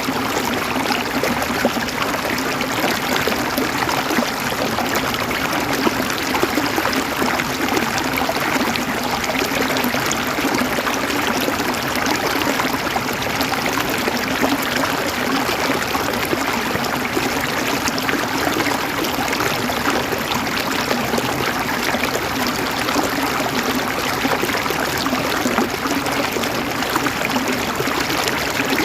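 River water running over stones, a steady gurgling and rushing flow.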